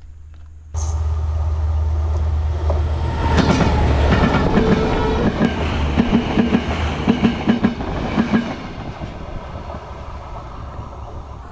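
Train passing close by on the rails. It starts suddenly about a second in. Its wheels then clack in a quick regular run over the rail joints before the sound eases off near the end.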